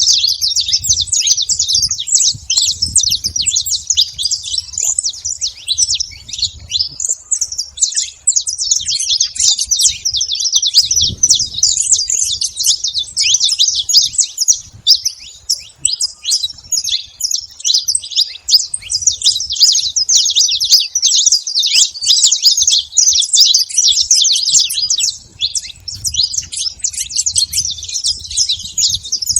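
Saffron finch singing: a long, fast run of high chirping notes with hardly a pause, dipping briefly about seven seconds in.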